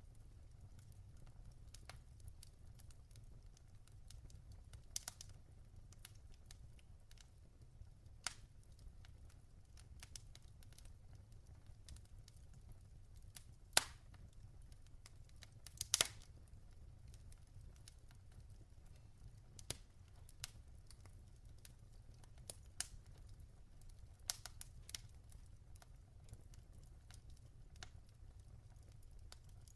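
Wood fire burning in a fireplace: scattered sharp crackles and pops from the logs, the two loudest about halfway through, over a faint low rumble.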